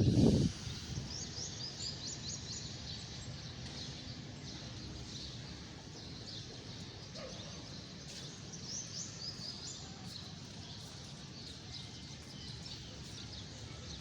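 Small birds chirping in quick high repeated notes over a steady low background noise, with a brief louder low sound at the very start.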